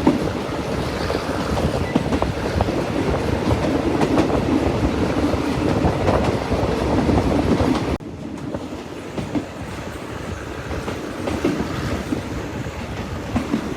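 Train running along the track: a steady rumble with scattered clicks from the wheels on the rails. The sound drops abruptly in level about eight seconds in, then carries on more quietly.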